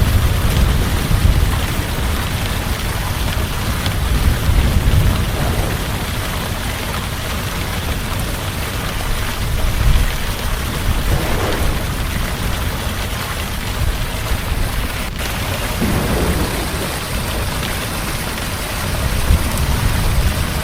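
Heavy rain falling steadily as an even hiss, with low rolling thunder rumbling underneath and swelling a few times.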